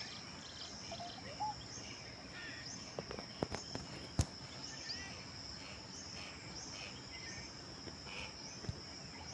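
Steady high-pitched insect drone, with scattered short chirps from small birds. A few sharp clicks land about three to four seconds in, the loudest just after four seconds.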